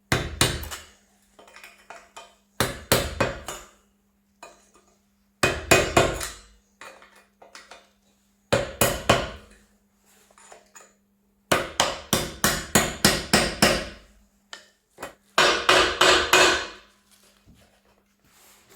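Hammer blows on the half-track's middle wheel and swingarm assembly as it is knocked apart, coming in about six bursts of quick strikes, roughly five a second, with short pauses between.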